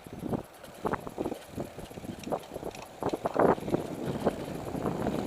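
Mountain bike clattering along a rough dirt trail: irregular knocks and rattles from tyres and frame over roots and bumps, with the heaviest jolt about three and a half seconds in.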